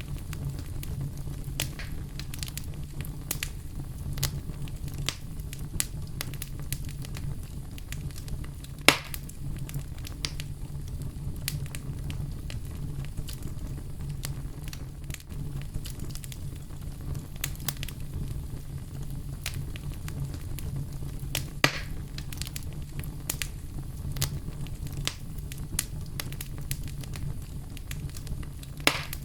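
Campfire burning: a steady low rumble with frequent sharp crackles and pops of the wood. A few louder pops stand out, the loudest about nine seconds in.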